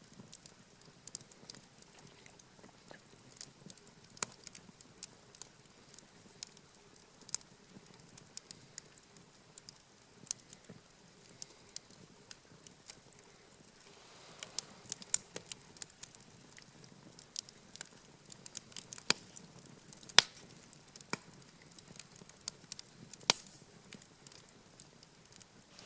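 Wood campfire crackling, with irregular sharp snaps and pops, a few louder pops in the second half.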